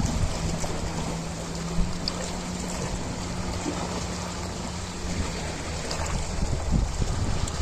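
Ocean waves washing and surging, with a steady low hum underneath that stops about six seconds in.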